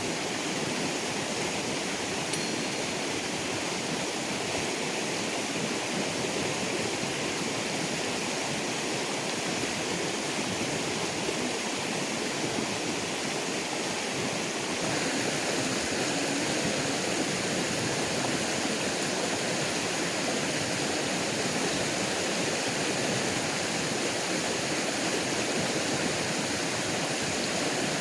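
Stream water running steadily, an even rushing that gets a little louder about halfway through.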